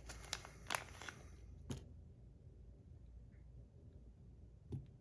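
A few light clicks and taps of small fidget parts being handled in the first two seconds, then quiet handling and a soft knock near the end.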